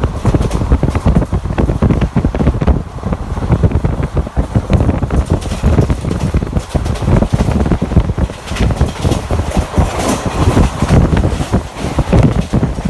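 Wind buffeting the microphone heavily over the rumble of a moving passenger train.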